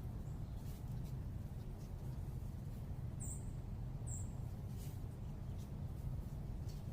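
Steady low urban background rumble, with a small bird giving two short, high chirps about a second apart near the middle.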